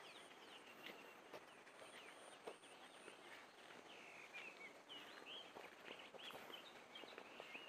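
Faint chirping of small birds: many short, quick high chirps scattered throughout, over a soft hiss of outdoor background.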